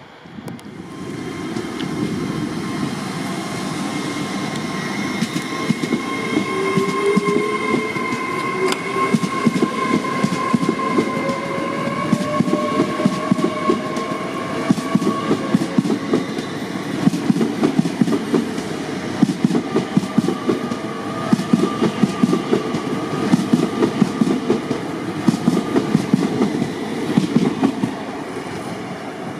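A train running along the platform, its wheels clattering over the rail joints under a steady whine. It comes up about a second in and drops away near the end.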